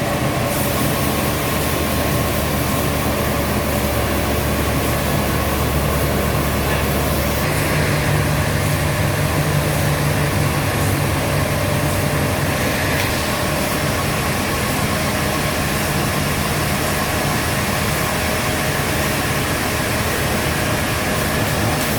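Heavy sawmill machinery running with a steady engine drone; its low note changes about seven and a half seconds in.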